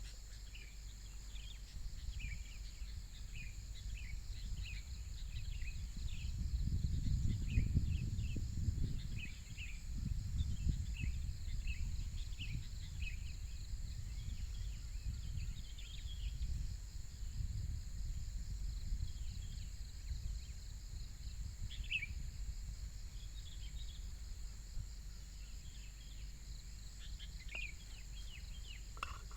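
Outdoor ambience of birds chirping in short scattered calls over a steady high insect drone. A low wind rumble on the microphone swells for a few seconds near the start and then settles.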